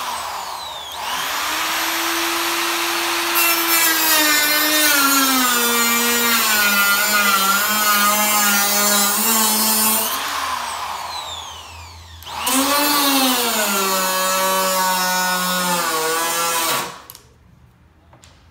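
Handheld electric power tool cutting into a car hood panel: the motor spins up, its whine sinks in pitch as the cutter bites and bogs under load, winds down about ten seconds in, then starts again about two seconds later, bogs once more and stops near the end.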